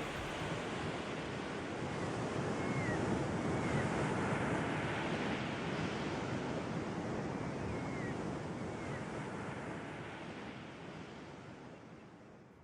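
Sea surf washing on the shore, a steady rush that fades out over the last few seconds, with a few faint short bird calls.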